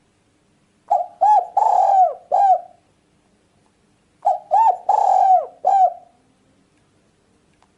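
Spotted dove (tekukur) cooing: two phrases about three seconds apart, each of four notes with a longer third note.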